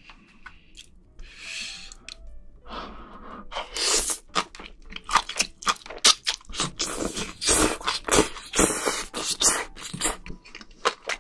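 Close-miked eating of spicy braised octopus and noodles: a soft slurping hiss in the first few seconds, then wet, sticky chewing with quick mouth clicks and smacks.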